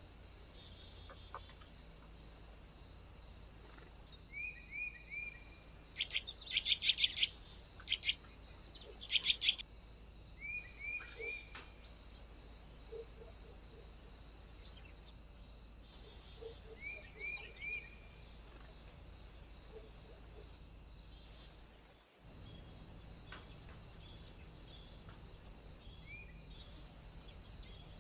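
Small birds calling at a feeder: short chirps in quick groups of three, with a burst of louder rapid notes partway through, over a steady high-pitched hiss. The sound drops out briefly near the end.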